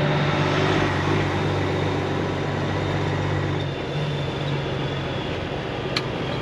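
Semi truck's diesel engine running steadily, a low even drone. A single short click comes near the end.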